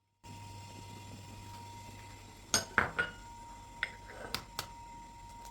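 Eggs being cracked on the rim of a small bowl: three sharp taps and clinks that ring briefly, about two and a half seconds in, then three lighter clinks.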